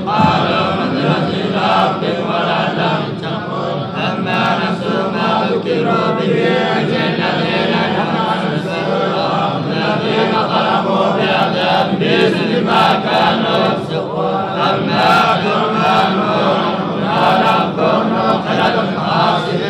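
Quran recitation chanted by men's voices, continuous throughout.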